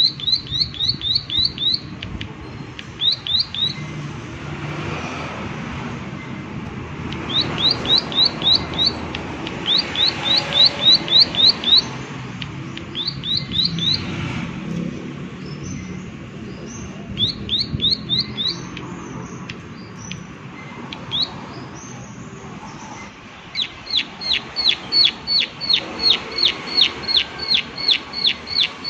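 Plain prinia (prenjak sawah) giving its 'klik klik' call: a rapid series of sharp, downward-sliding ticks, about four to five a second, in short bursts with pauses. Near the end it runs into one long unbroken series. A few softer chirps and a steady background hiss come in between the bursts.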